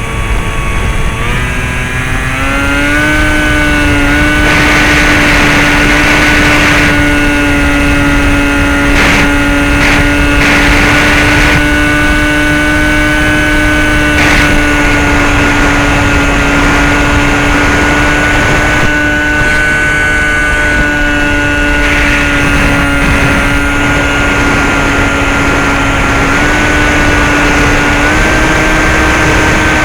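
Brushless electric motor and 9x6 propeller of a Bixler 2 model plane, heard from on board: a high whine that climbs in pitch as the throttle opens over the first few seconds, then holds steady over a rushing noise. The pitch steps up slightly twice near the end.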